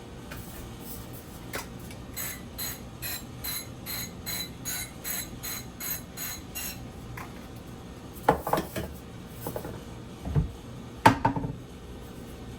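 Kitchen clatter of dishes and pans: a run of evenly spaced light taps, about two a second, then a few louder knocks and clinks near the end.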